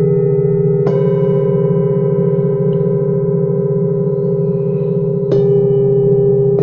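Metal singing bowls struck and left ringing, their long overlapping tones sustaining over a low wavering hum, with a fresh strike about a second in and another near the end.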